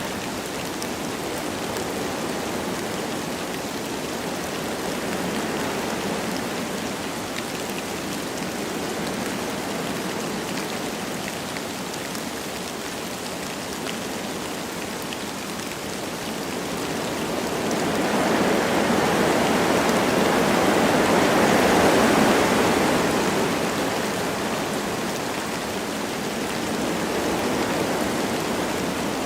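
Wind blowing through forest trees with light rain falling, a steady hiss of noise. The wind swells into a stronger gust a little past halfway and dies back down.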